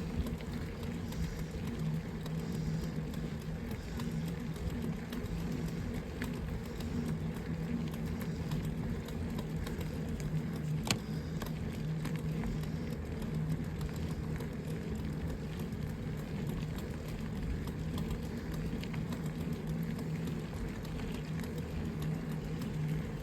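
Steady rolling noise of a mountain bike being ridden, with a constant low hum from the tyres and wind on the microphone, and one sharp click about halfway through.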